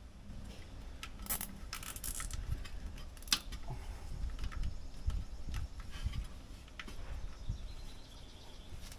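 Hand-work noises of nylon zip ties being fastened: scattered rustles, short zipping clicks and light knocks, with one sharp click about three seconds in.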